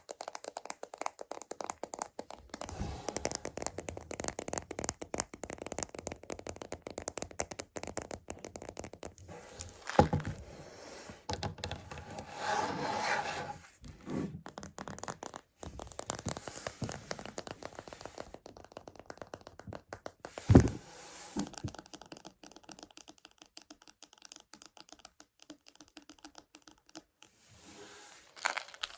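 Fingernails tapping and scratching fast on the plastic container of Choco Baby chocolates, ASMR-style, with two louder single knocks, about ten and about twenty seconds in.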